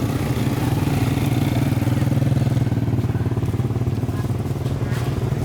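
Small motorcycle engine running steadily with a fast, even pulse.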